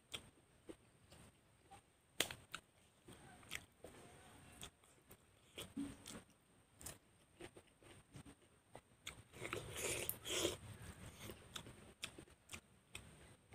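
A person chewing and crunching food, with scattered sharp mouth clicks and smacks and a louder stretch of crunching about ten seconds in.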